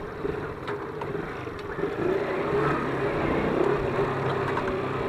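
Small ZiD 50 moped engine running under way, heard from on board, getting louder about two seconds in, with a few sharp clicks over it.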